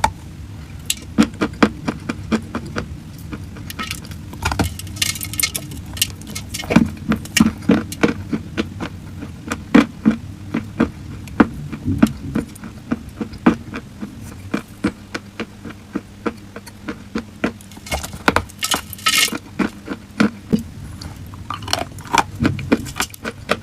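Crunchy chalk cracking and crumbling in close-up, a run of irregular sharp crunches several a second, with a couple of denser crackling stretches about five seconds in and near the end.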